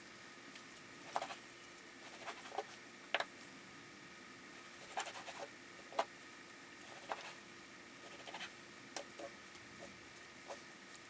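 Irregular light clicks, taps and small scrapes, a few sharper ones standing out, over a faint steady hum.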